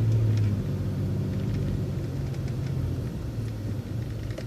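City bus engine and drivetrain running with a steady low hum that drops in pitch about half a second in and slowly fades, as the bus slows.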